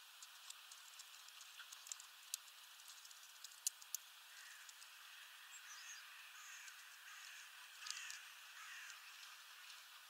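Faint bird sounds at a seed feeder: scattered sharp clicks and taps through the first few seconds, then a run of short, falling calls with a few brief high chirps from about four to nine seconds in.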